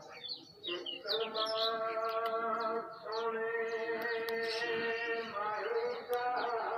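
A voice holding long, drawn-out chanted notes, two long notes in a row, while birds chirp.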